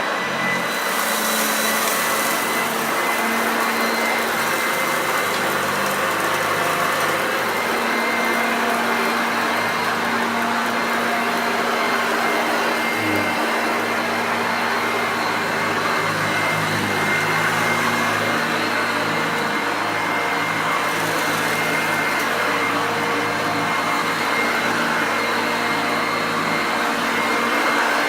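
Hoover Junior upright vacuum cleaner running steadily: a continuous rush of air with a steady high motor whine.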